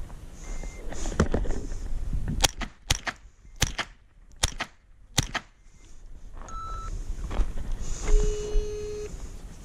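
A string of about seven sharp .22 gunshots, fired half a second to a second apart, then a few short electronic tones.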